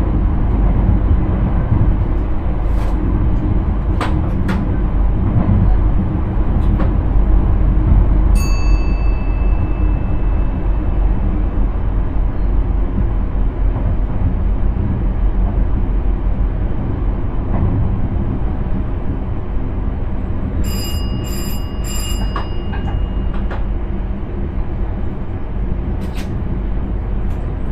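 Steady running rumble of an intercity train heard inside the driver's cab at speed. A single electronic tone sounds about eight seconds in, and three short beeps follow around twenty seconds in.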